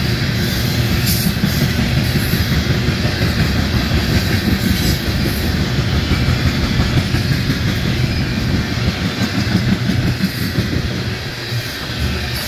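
Freight train of coal cars rolling past at close range: steady wheel rumble with the clickety-clack of wheels over rail joints.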